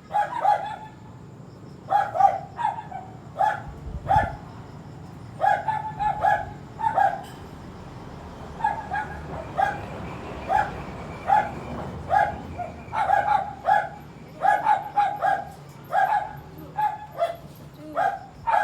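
A dog barking over and over: short, sharp barks coming singly and in quick pairs or runs, about one to two a second.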